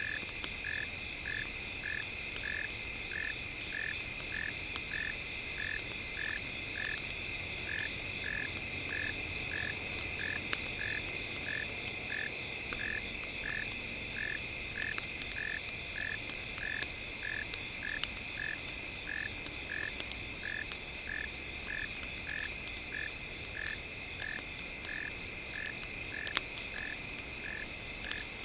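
Night chorus of frogs and insects: a high call pulsing about twice a second over a steady, shrill insect drone, with a few faint crackles. The pulsing grows louder near the end.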